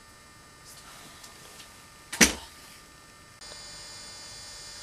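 A single sharp click about two seconds in, then a steady high-pitched electrical hum that starts abruptly a little later.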